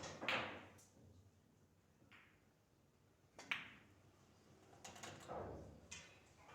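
Pool balls and cue clacking: a few separate hard knocks, the sharpest about halfway through.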